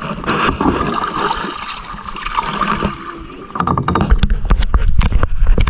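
Sea water splashing and sloshing around a kayak, with wind buffeting the microphone in loud rumbling thumps from about halfway through.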